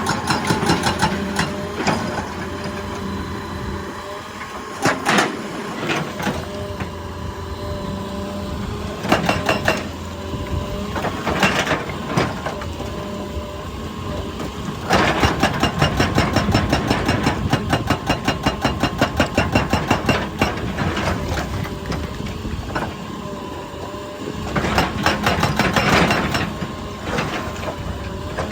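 An excavator's engine runs steadily while its hydraulic breaker hammer pounds rock in bursts of rapid, evenly spaced blows. The longest burst lasts about six seconds around the middle, and another comes near the end.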